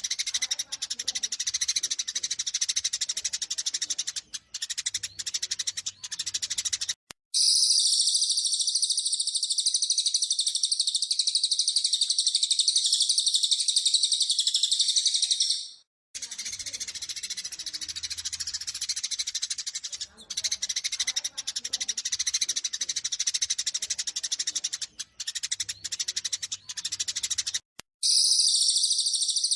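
Eurasian tree sparrows' fast, agitated fighting chatter of dense chirps, switching abruptly to a loud, unbroken high-pitched trill and back again, then to the trill once more near the end.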